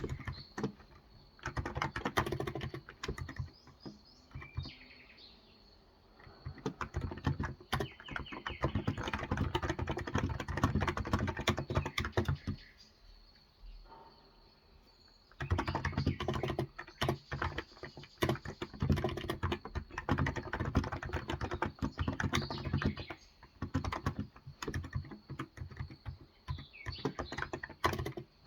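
Typing on a Cox Endeavor electrostatic capacitive keyboard with light 35 g switches: fast runs of soft keystrokes in bursts, broken by two pauses of a few seconds. Faint birdsong can be heard in the pauses.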